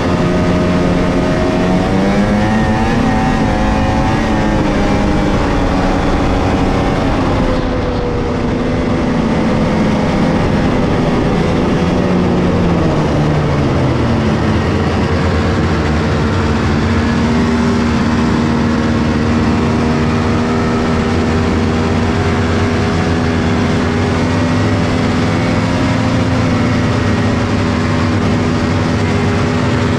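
1997 Polaris XCR 600 snowmobile's three-cylinder two-stroke engine, stock with factory triple pipes, running under way. The engine speed climbs and wavers over the first several seconds, drops back about halfway through, then holds steady.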